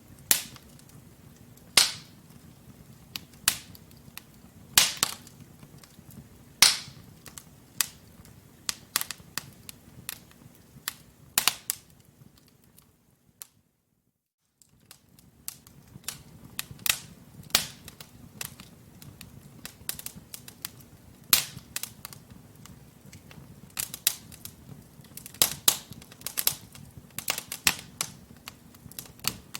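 Wood fire in a fireplace crackling: burning logs give sharp, irregular pops and snaps over a low steady hiss of flame. The sound cuts out for about a second around the middle.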